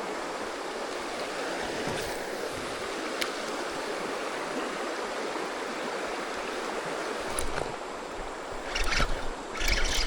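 Steady rush of creek water over rocks, with a few short, louder hissing bursts near the end.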